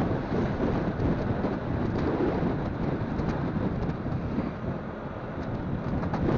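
Wind buffeting the microphone of a moving motorcycle, a steady low rumble of rushing air and road noise.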